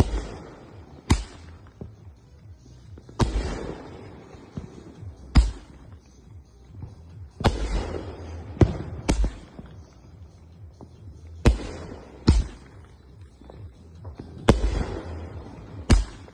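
Consumer backyard fireworks going off in a steady sequence, about one shot every four seconds. Each shot is a thump with a hissing, crackling tail, followed a second or two later by a sharp bang.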